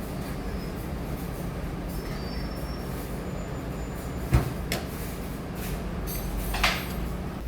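Steady low mechanical hum of running machinery, with two sharp knocks about halfway through and a short hiss near the end.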